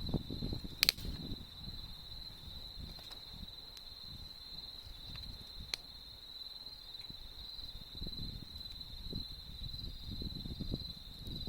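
Autumn insects trilling in one steady high unbroken note, over the low crackle of a wood campfire. A sharp pop from the fire about a second in is the loudest sound, and a smaller one comes near the middle.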